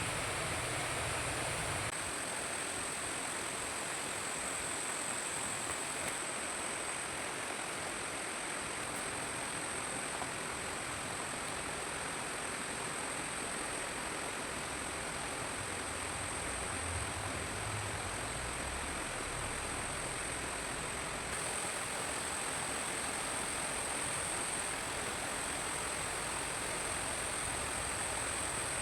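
Steady forest ambience: an even hiss with a continuous high-pitched drone above it.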